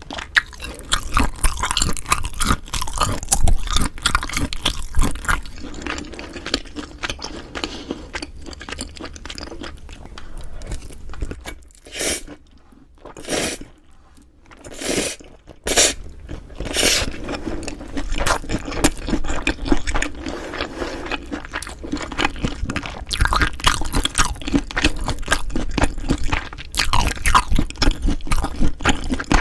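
Close-miked chewing and crunching of food, with wet mouth sounds and a short quieter pause about halfway through.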